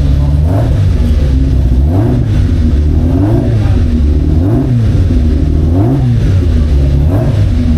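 Racing car engine revving up and back down over and over, about once every second and a half, loud throughout.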